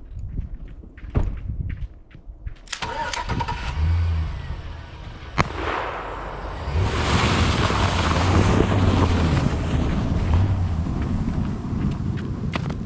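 A motor vehicle's engine running with a low steady hum, growing louder from about four seconds in and loudest near the middle. Crunching footsteps come before it.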